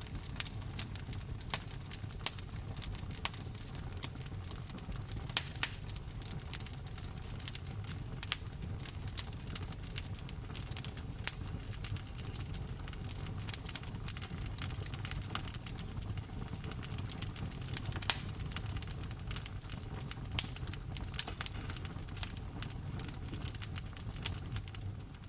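Wood fire crackling: irregular sharp snaps and pops, a few of them louder, over a steady low rumble of the burning logs.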